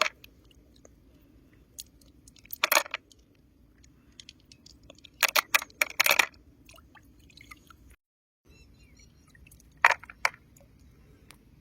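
Short clusters of wet crunching and squelching: one near three seconds in, a longer run around five to six seconds, and two more near ten seconds, over a low steady background hum. There is a brief dead gap just past eight seconds.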